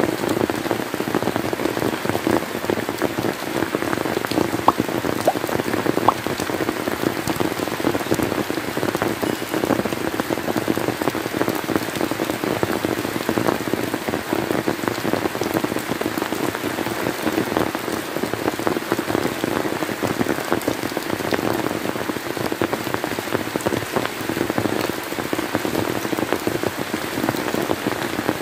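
Steady rain falling on surfaces, a dense patter of many drops with a few louder single drops standing out.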